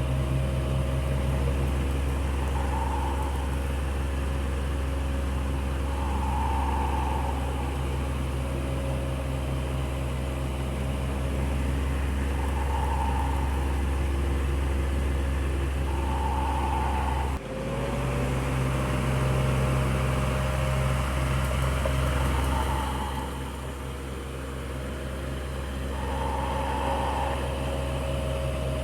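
Electric fan running steadily: a constant motor hum with a soft whirring that swells and fades every few seconds. The sound drops out for an instant about two-thirds of the way through.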